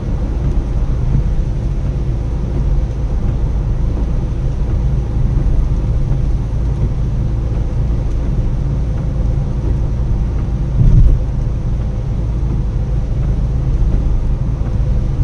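A car being driven, a steady low rumble of engine and road noise. A louder low thump comes about eleven seconds in.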